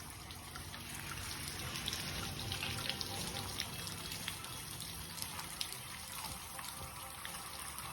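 Rain falling steadily, with scattered drops dripping and ticking.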